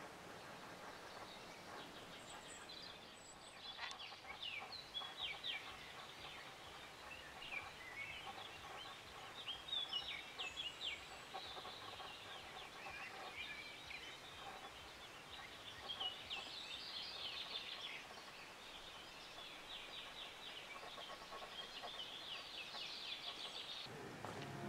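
Small birds singing: rapid series of high chirps coming in bursts every few seconds, over a faint steady outdoor hiss.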